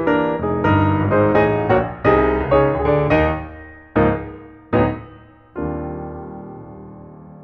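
Background piano music: a flowing run of notes, then three separate struck chords, the last held and slowly fading.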